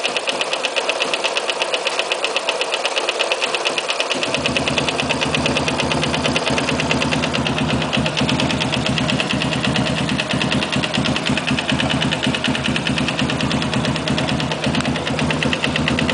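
Yamaha Sniper 169 motorcycle engine running with a fast, regular knocking. About four seconds in, a deeper engine hum joins and continues under the knock.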